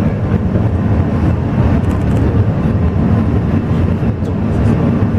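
Alishan Forest Railway train running, a loud steady rumble.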